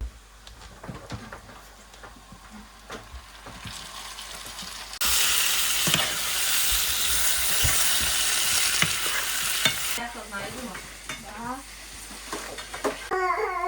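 Light clatter of kitchen handling, then about five seconds of loud, even sizzling of food frying in a pan, starting and stopping abruptly.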